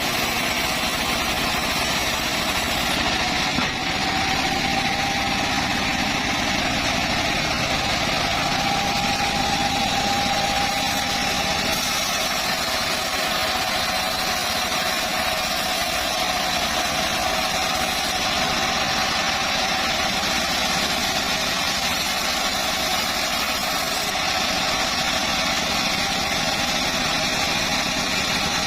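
Small engine of a motorised saw running steadily at an even speed, without revving.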